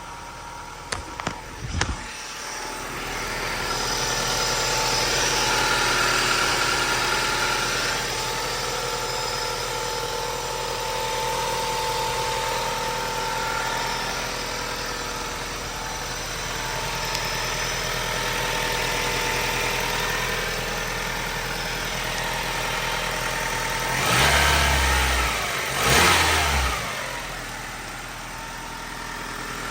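1996 Toyota Camry's 2.2-litre inline-four engine (5S-FE) running steadily at idle, heard at the exhaust. Near the end the throttle is blipped twice, two short revs about two seconds apart. There are a few short knocks about a second in.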